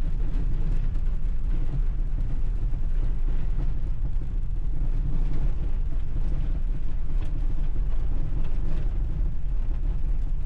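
VW Vanagon Syncro driving slowly through soft, packed snow: a steady low engine and drivetrain rumble.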